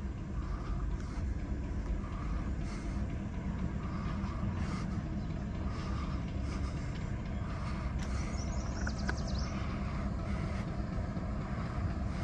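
Freight boxcars rolling past on the rails, a steady low rumble of wheels and trucks with occasional light clicks.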